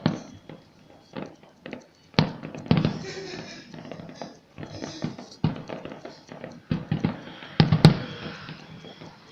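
Fireworks going off: a string of sharp bangs at uneven intervals, with crackling between about two and five seconds in and the loudest bang near the end.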